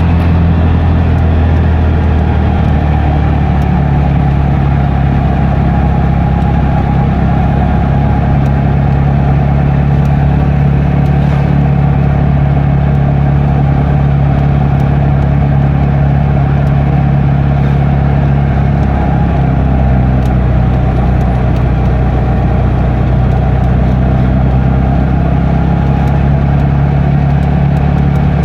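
Motor vehicle engine running at a steady, even pitch, with a steady low hum and road noise throughout.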